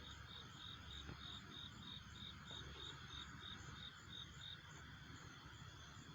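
Faint, evenly repeated high chirping of a night-calling animal, about three chirps a second, which stops a little past halfway, over a low background rumble.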